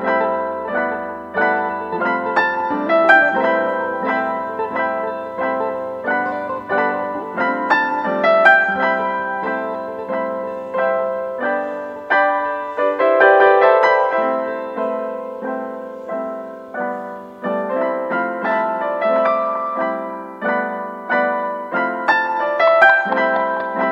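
Background piano music: a gentle melody of evenly paced notes, each struck and fading.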